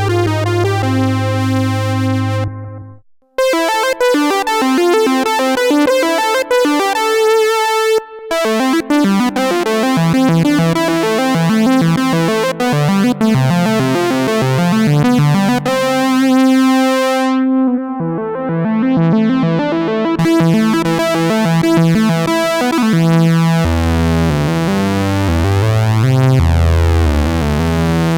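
Arturia MatrixBrute analog synthesizer playing a fat lead sound, a melody of bright, overtone-rich notes. There is a brief break about three seconds in as one patch ends and the next begins, and low bass notes join near the end.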